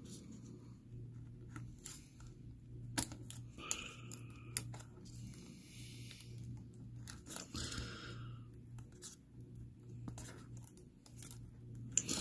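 Faint handling noises from fitting the laptop's display cable and screen panel: scattered small plastic clicks and taps, with stretches of scratchy rustling.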